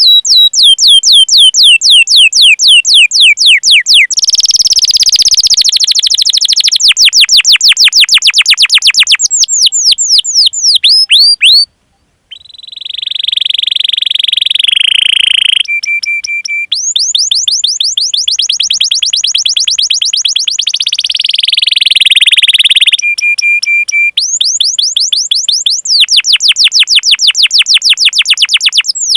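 Domestic canary singing long, rapid trills of repeated falling 'cuit cuit' chirps, rolling at about five to ten notes a second, broken by a short gap about twelve seconds in and a few brief steady whistled notes.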